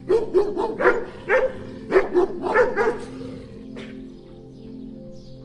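Dog barking, a quick series of short barks, some in pairs, that stops about three seconds in, over steady background music.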